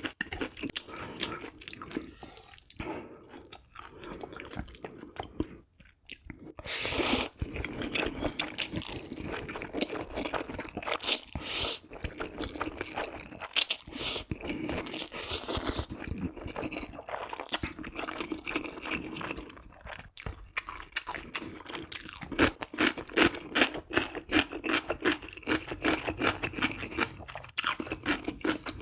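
Close-up chewing and crunching of food, a dense run of small crunches, with a few louder bursts about a quarter and a half of the way through.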